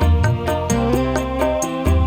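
A live dangdut band (keyboard, kendang and lead guitar) playing an instrumental passage: held keyboard notes over a heavy bass line, with a steady high tick keeping time about four times a second.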